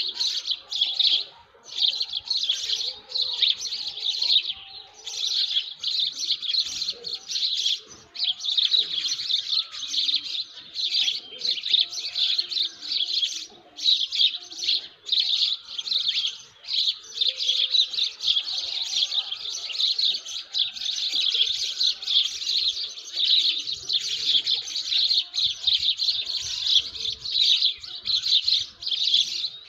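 Many small birds chirping together in a dense, busy chorus of high twittering that hardly pauses, with a few fainter, lower calls underneath.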